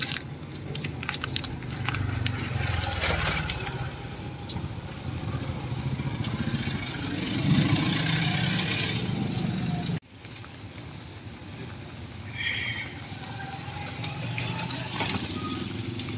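Kawasaki motorcycle engine of a tricycle running and revving as it pulls away. After a sudden cut about ten seconds in, the engine runs again under a steady hiss of rain.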